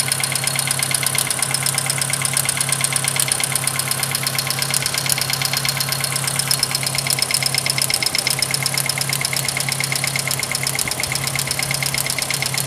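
Volkswagen Gol G4's EA111 engine idling with a loud, rapid, even tapping from its hydraulic lifters, which the mechanic says are knocking a lot. The engine is misfiring, traced to spark leaking at the coil terminal of the third cylinder.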